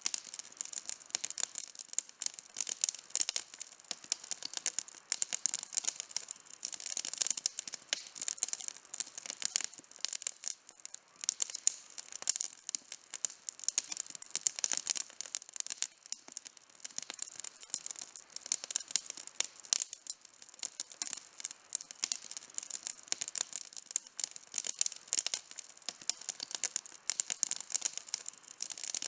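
Wood campfire burning, with dense, irregular crackling and snapping over a soft hiss.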